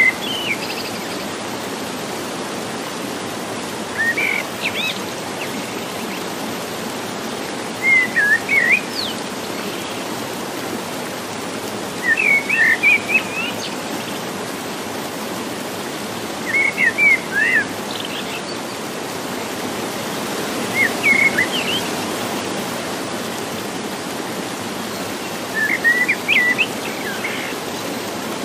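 A songbird repeating a short, quick chirping phrase about every four seconds over the steady rush of a stream.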